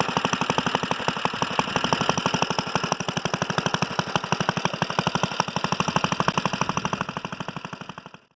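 Freshly rebuilt 1947 Briggs & Stratton Model N single-cylinder engine running steadily with an even, rapid firing beat. The sound fades out near the end.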